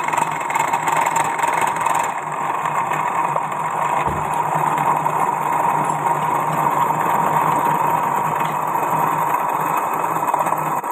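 CNC milling machine running steadily while milling a mould: continuous machining noise with a constant high whine and a low hum underneath.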